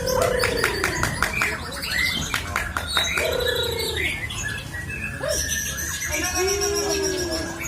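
White-rumped shama singing a long, unbroken song: rapid clicks, sharp high whistles and trills mixed with slurred lower whistled phrases, in a continuous stream.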